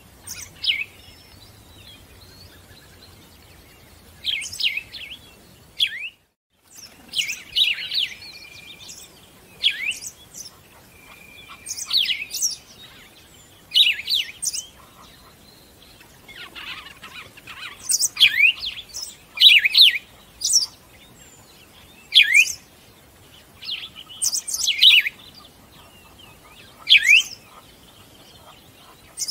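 Small birds chirping: short, sharp, high calls in quick clusters, repeating every second or two, with a brief cut to silence about six seconds in.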